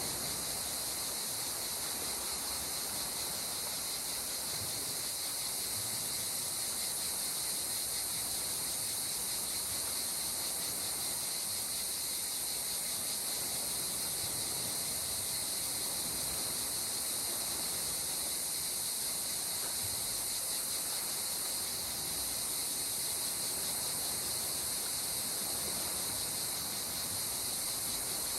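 Steady, high-pitched insect chorus of crickets or cicadas, unbroken and even, over a soft constant wash of noise beneath.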